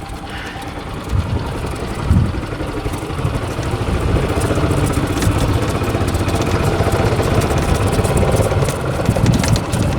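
A vehicle engine running, getting louder about four seconds in, with scattered light clicks and rattles over it.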